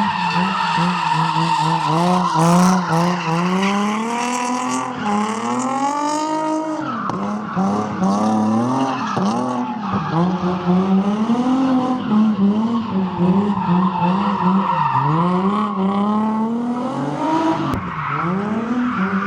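A car engine revving hard, its pitch climbing and dropping again and again, over a continuous tyre squeal: a car drifting.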